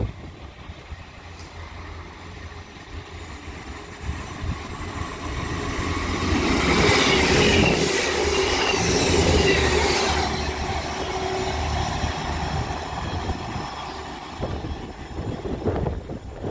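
East Midlands Railway diesel multiple unit running past at the platform. A low engine drone with wheel-on-rail noise builds up, is loudest from about six to ten seconds in with a faint high ringing of the wheels, then fades as the train moves away.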